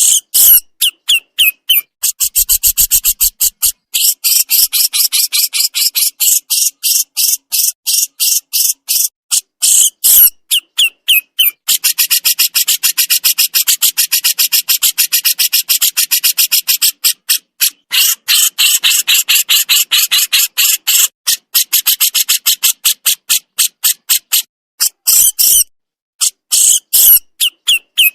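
Burung jenggot (crescent-chested babbler) giving its 'besetan' chatter: long runs of rapid, sharp, high-pitched notes, many per second, broken by a few brief pauses.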